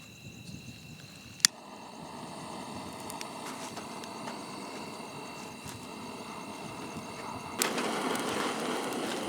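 A campfire of dry wood being lit. A sharp click comes about a second and a half in, then a rushing of flame with scattered crackles that builds and grows clearly louder near the end as the fire catches.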